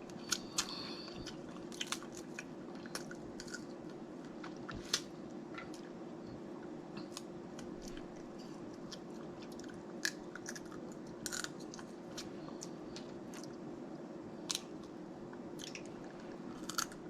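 Close-up chewing and eating of snow crab legs in butter sauce: wet mouth sounds broken by scattered sharp clicks and small cracks of crab shell, several seconds apart.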